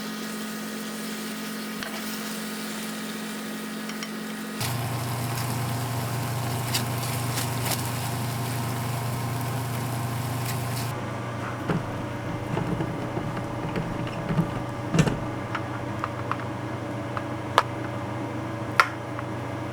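Steady hum of a running kitchen appliance, such as a stovetop extractor fan, changing abruptly twice where the footage is cut. In the second half, light clinks and knocks of cooking utensils against a pan.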